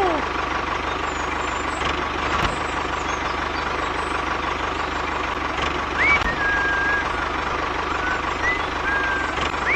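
A small motor running steadily, with a fast even pulse and a constant whine. A few short high whistling tones come in over it in the second half.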